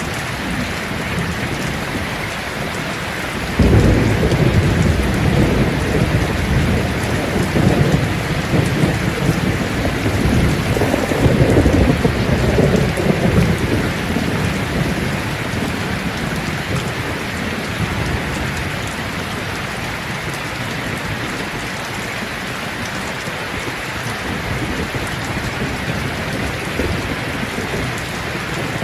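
Steady rain falling on leaves, with a rolling rumble of thunder that starts suddenly a few seconds in, swells, and dies away after about ten seconds.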